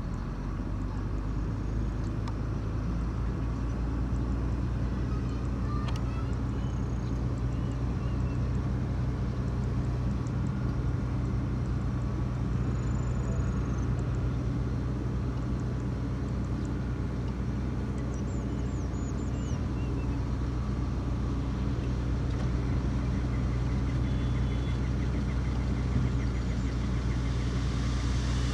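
Heavy diesel engine running steadily at a constant speed, a deep even hum.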